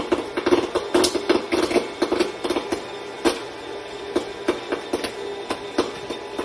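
A pet chewing crunchy food: rapid, irregular crunches and crackles, several a second.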